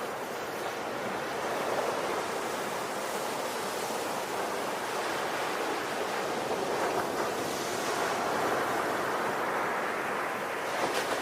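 Ocean waves: a steady rushing wash of surf with gentle swells in loudness. About ten seconds in, the high hiss drops away.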